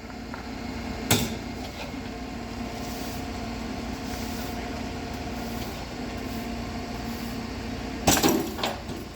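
A vehicle engine idling steadily, with a single sharp knock about a second in and a short clatter of knocks near the end.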